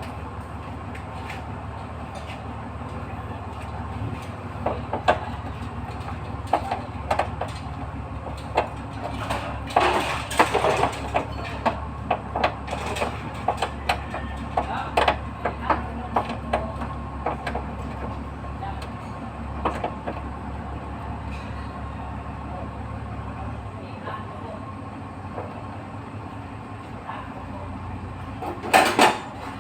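Hand tools and metal parts clinking and knocking during work on a truck's gearbox fittings, with louder clattering about a third of the way in and again near the end, over a steady low hum.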